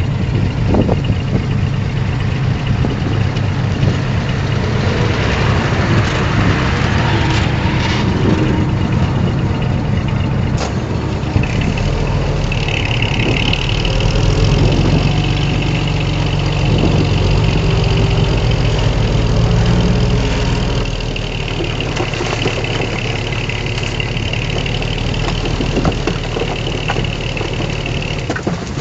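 Heavy diesel engine of earthmoving machinery running steadily. A steady high-pitched whine joins it a little under halfway through and holds almost to the end.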